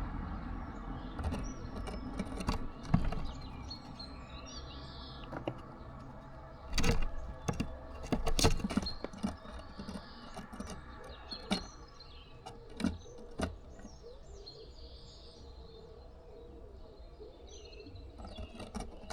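Small birds chirping now and then, with irregular sharp taps and knocks, the loudest of them in a cluster about seven to nine seconds in, over a low steady outdoor rumble.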